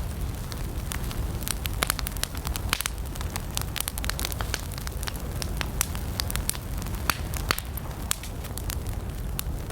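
Wood campfire burning: frequent sharp, irregular crackles and pops over a steady low rumble of the flames.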